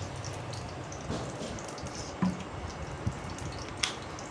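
Oil heating in a frying pan, with a steady sizzle and scattered small pops and crackles, a few sharper ones about two, three and four seconds in.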